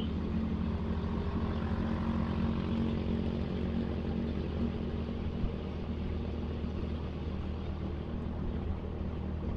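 Motorcycle engine running steadily while riding, with wind and road noise; it sounds like a Suzuki Satria FU. The drone holds an even pitch and cuts off suddenly at the very end.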